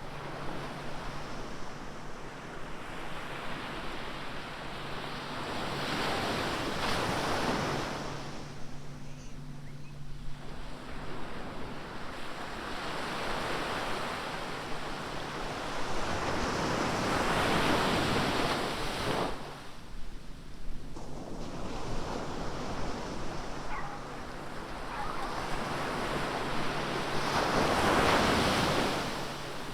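Ocean surf washing onto a beach, with three waves breaking about ten seconds apart, each swelling up and then fading.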